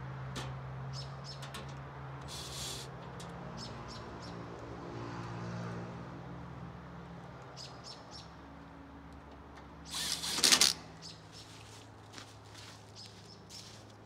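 Small birds chirping over a steady low hum, with one short, loud burst of noise about ten seconds in.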